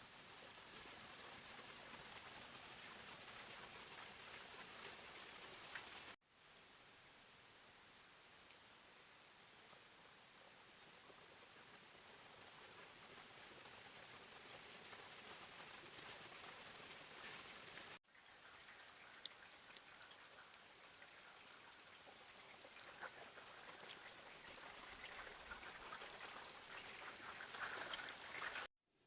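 Faint steady rain: an even hiss with scattered ticks of drops. It breaks off abruptly twice, as separate shots of rain are joined.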